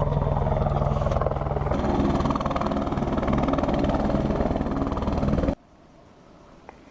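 Tour helicopter's turbine engine and rotor running steadily; the tone shifts about two seconds in, and the noise cuts off abruptly about five and a half seconds in, leaving a quiet background.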